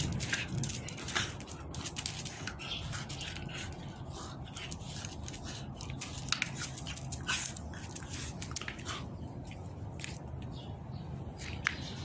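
A pet dog at play, making scattered short clicks and taps over a steady low hum.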